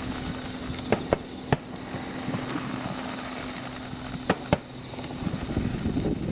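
Fireworks sound effect: several sharp pops, two close together about a second in, one a moment later and two more near the end, over a steady hiss.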